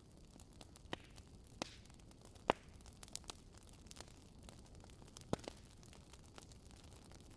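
Wood fire crackling: a soft steady hiss with irregular sharp pops and snaps, the loudest about two and a half seconds in.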